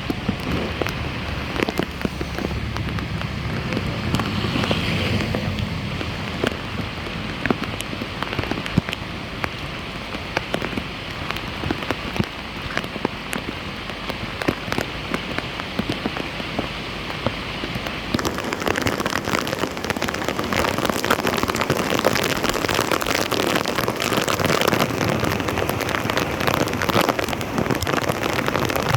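Rain falling on a flooded street: a dense, steady patter of drops striking water. It grows louder and hissier about two-thirds of the way through.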